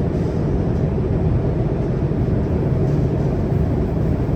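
Steady low rumble of a CRRC Qingdao Sifang Type A metro train running between stations, heard inside the passenger car.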